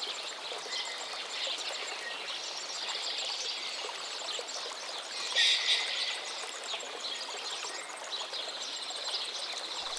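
Outdoor nature ambience: a steady rushing background noise with birds chirping throughout. A louder call comes about five and a half seconds in, and a fast trill near the end.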